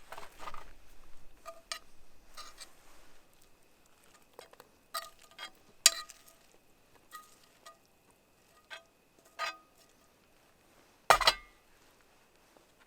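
Metal camp cookware clinking: a series of separate light clinks and knocks with a short ringing tone, the loudest about halfway through and another near the end.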